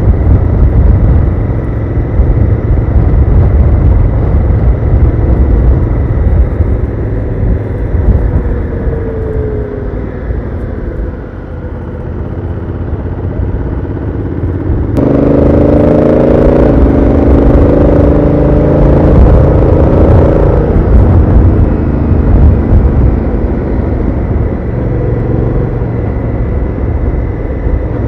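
Honda Africa Twin CRF1000L's parallel-twin engine running through its stock exhaust, under heavy wind rumble on the microphone. About halfway through the engine note jumps up sharply under acceleration, stepping in pitch as the DCT gearbox shifts up, then eases off after several seconds.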